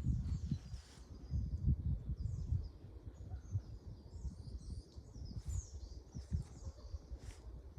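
Small birds chirping and twittering in short, high calls throughout, over an irregular low rumble that comes and goes, loudest in the first few seconds.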